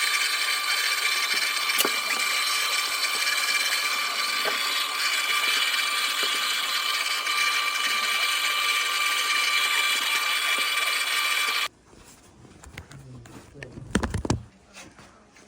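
A power tool running steadily at constant speed with a high whine, then cutting off abruptly near the end, followed by a few quieter knocks.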